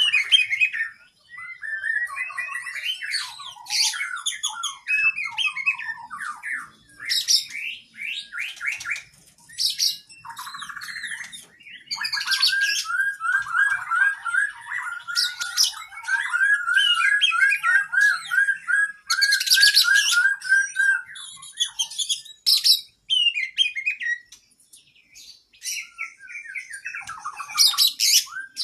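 Oriental magpie-robin (kacer) singing a long, varied song of quick chirps, whistled phrases and harsh squawk-like notes. In the middle, a rapid trill is held for about nine seconds.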